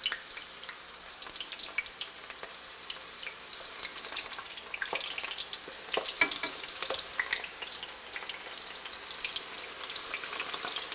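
Eggplant slices frying in hot olive oil in a stainless steel skillet: a steady sizzle full of small pops and crackles, with a few sharper clicks about six seconds in.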